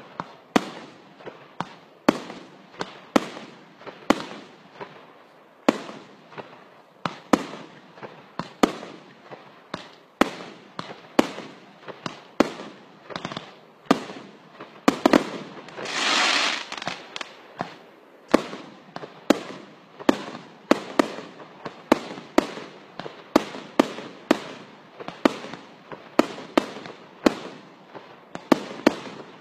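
Fireworks going off in a steady run of sharp bangs, about two a second, each trailing off briefly. About fifteen seconds in comes a longer hissing burst lasting a second or two.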